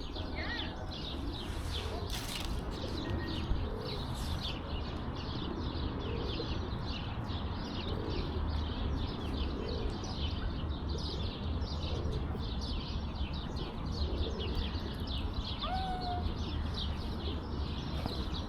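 Many small birds chirping in a dense, continuous chorus of rapid short notes, over a steady low background rumble.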